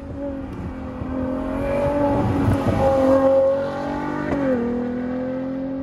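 Car engine running hard at a steady high note that grows louder, then drops abruptly in pitch about four and a half seconds in, as at a gear change, and carries on at the lower note.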